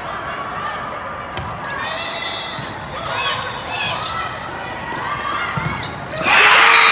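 Gym ambience during a volleyball rally: background voices and a few sharp ball or floor impacts, then the crowd suddenly erupts into loud cheering and shouting about six seconds in.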